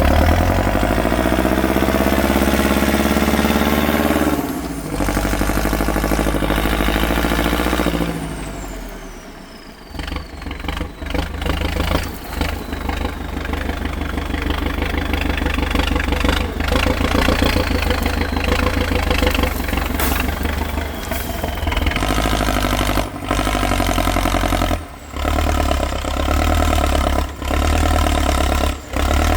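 Heavy off-road truck engine revving hard under load. Its pitch climbs over the first few seconds, then it keeps running hard, broken by several abrupt drops.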